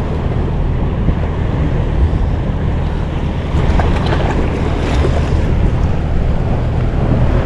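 Wind rumbling on the microphone over waves and water around a small fishing boat, a steady noise that gets a little louder about three and a half seconds in.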